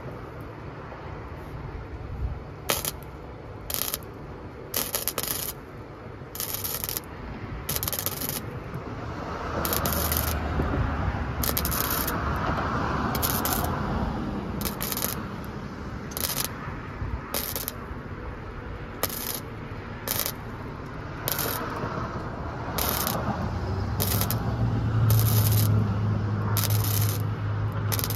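Sanding on a van's sheet-metal roof: steady scraping and rubbing, broken by sharp clicks every second or two where short clips are joined. A low hum comes in for the last few seconds.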